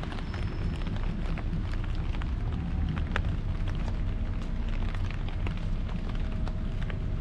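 Steady rain drumming on an umbrella overhead, many small drop ticks over a constant wash of rain noise, with a low steady rumble underneath.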